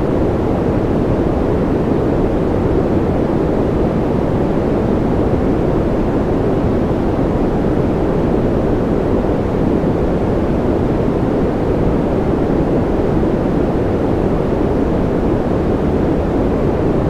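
Steady, unchanging white noise for sleep. Its weight lies in the low and middle range, so it sounds deep and muffled rather than hissy.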